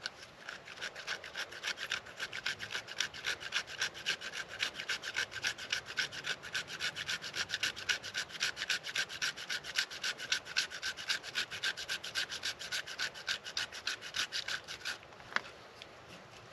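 Knife blade scraping fatwood in quick, even strokes, about four or five a second, shaving off tinder; the scraping stops near the end, followed by a single click.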